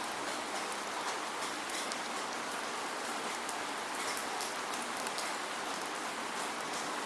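Steady rain without thunder: a continuous hiss of falling rain, with many small drop ticks throughout.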